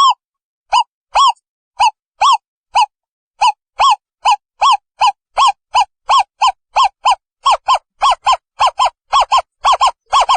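Owl calling: a series of short hoots, each rising and then falling in pitch. They speed up from about two a second to about four a second.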